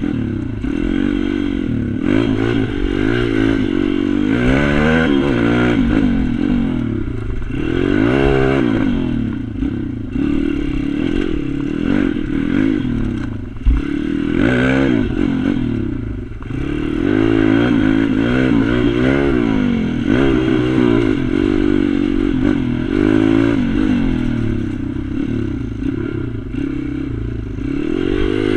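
Small single-cylinder pit bike engine revving up and down over and over as it is ridden round a track, the pitch climbing on the straights and dropping off for corners, with a single knock about halfway through.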